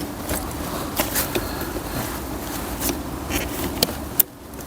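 Small clicks and scrapes of plastic connector locking tabs being worked by hand, over a steady low hum, with one sharp click about four seconds in.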